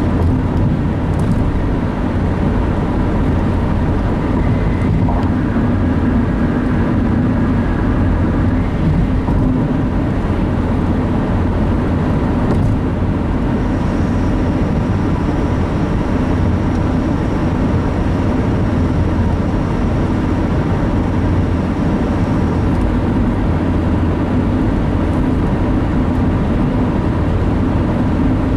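Steady road and engine noise of a car driving at speed, heard from inside the cabin: an even low rumble with no change.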